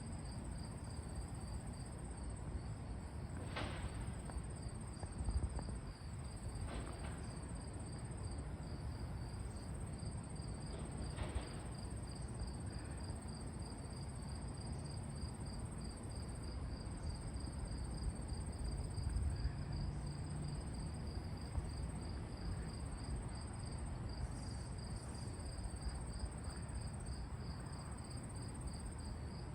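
Steady high-pitched insect trilling, evenly pulsed and unbroken, over a low rumble, with a few brief sharp sounds about 4, 7 and 11 seconds in.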